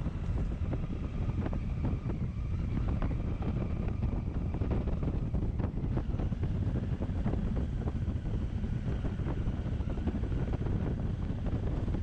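Wind buffeting the microphone of a moving motorcycle: a steady, loud rumble with the bike's running noise underneath. It cuts off suddenly at the end.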